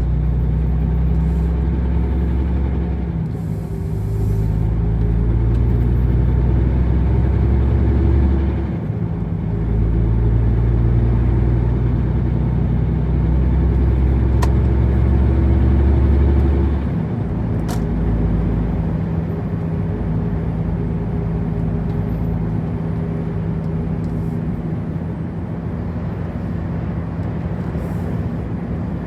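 Truck engine running steadily on the road, with its low drone swelling and easing back several times, about 3, 9 and 17 seconds in, over road noise.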